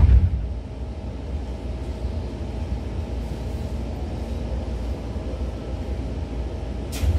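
Interior running sound of a Seibu 2000 series electric train: a steady low rumble and hum. About seven seconds in there is a sharp click, and a loud low drone starts up at the very end.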